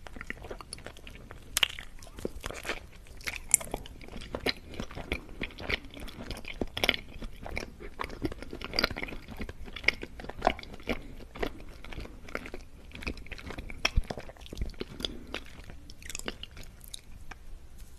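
Close-miked eating of an ice cream mochi: a bite at the start, then chewing with many short, irregular mouth clicks and smacks.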